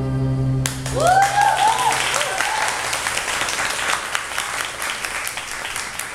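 A held final chord of the band cuts off less than a second in, and the concert audience breaks into applause with a few cheering whoops, slowly dying down.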